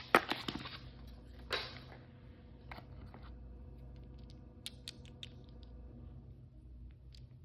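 Hands handling small toy packaging: a cluster of sharp clicks and crinkling in the first two seconds, then scattered light clicks and taps.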